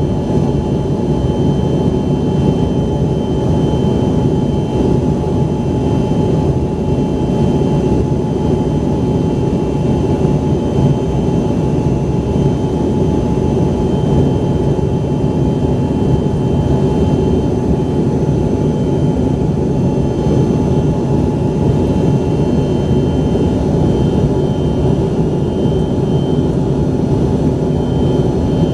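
Steady roar and whine of an Embraer ERJ-135's rear-mounted Rolls-Royce AE 3007 turbofans, heard from inside the passenger cabin. There is a constant low rumble with thin steady whining tones above it.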